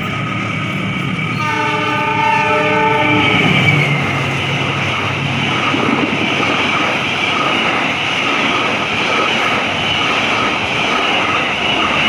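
Argo Parahyangan passenger train running through the station without stopping: a horn blast of about two seconds, starting about a second and a half in, then the steady noise of the carriages' wheels clattering on the rails as they pass.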